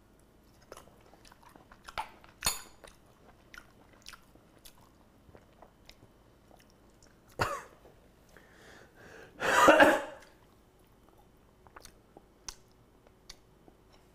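People chewing mouthfuls of steak, with small scattered mouth and cutlery clicks and a sharp click about two and a half seconds in. About ten seconds in comes a loud, short throaty burst, the loudest sound here.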